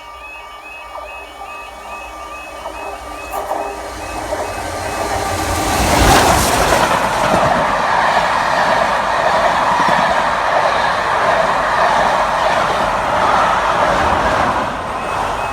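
BR Standard Class 7 'Britannia' steam locomotive 70000 Britannia and its train approaching and passing. The sound builds up to its loudest about six seconds in as the locomotive goes by, then the coaches roll past with a steady rumble and wheel clatter.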